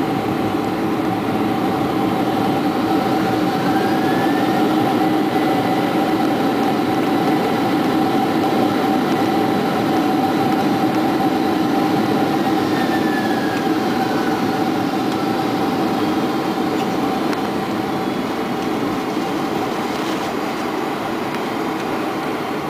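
Boeing 747-400 cabin noise heard from the forward cabin as the jet rolls along the runway after landing: a steady rumble of engines and wheels with a constant hum. A faint whine rises about three seconds in and a faint whine falls around twelve seconds in, and the noise eases slightly as the aircraft slows.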